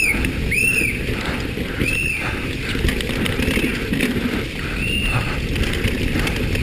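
Downhill mountain bike rolling and rattling over a rough trail. Short high squeals rise and fall in pitch over it, about once a second.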